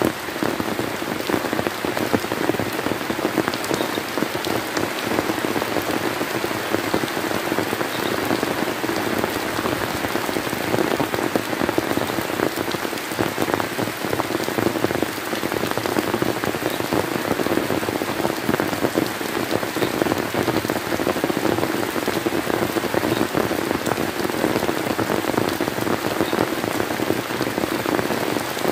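Steady rain falling, an even wash of sound with many individual drop hits.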